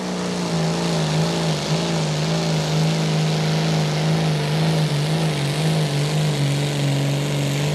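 Modified pulling tractor's engine running flat out at a steady high pitch during a pull, stepping down slightly in pitch about six seconds in.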